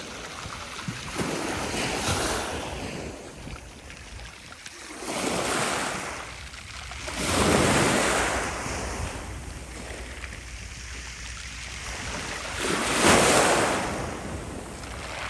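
Black Sea waves breaking on the shore, swelling and falling back about four times, the loudest near the end, with wind buffeting the microphone.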